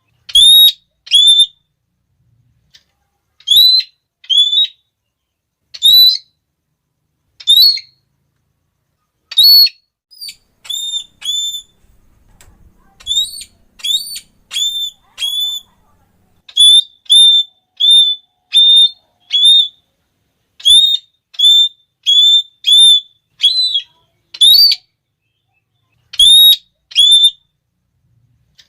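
Red-cheeked parrot (Geoffroyus geoffroyi) giving shrill, repeated 'klee' calls: short high notes that rise and then drop, singly or in quick runs of up to five, with silent gaps between the runs.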